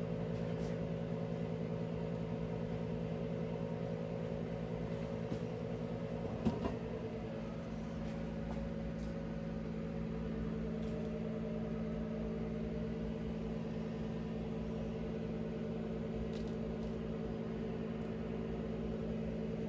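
Steady motor hum from a running appliance, with one sharp knock about six and a half seconds in, after which the hum's pitch shifts slightly.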